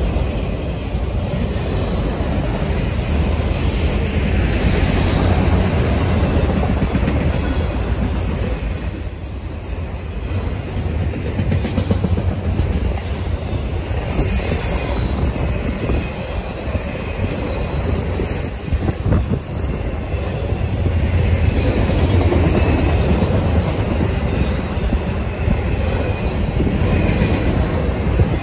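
Freight train of autorack cars rolling past at close range: a steady rumble with the wheels clattering over the rail joints.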